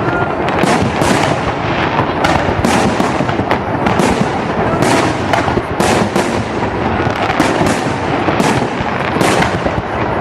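Fireworks salute: aerial shells bursting in quick succession, many sharp bangs a few tenths of a second apart over a continuous rumble of overlapping explosions.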